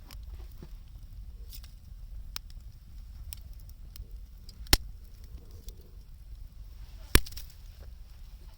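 Wood burning in an open bonfire, crackling with scattered small clicks and two sharp, loud pops, one near the middle and one near the end.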